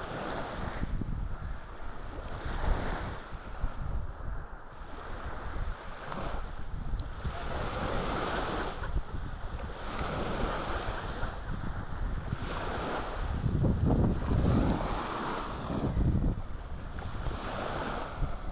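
Wind buffeting the microphone over surf washing on the beach, the hiss of the waves swelling and fading every second or two.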